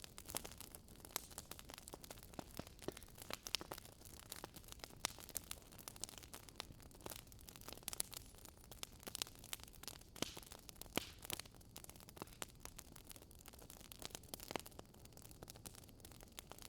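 Wood fire burning in a fireplace, with a soft steady hiss and irregular crackles and pops of burning logs, a few pops sharper than the rest.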